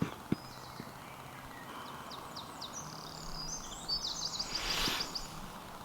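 A small songbird singing: a few separate high chirps, then a quick run of notes near the end, over a steady outdoor background hush.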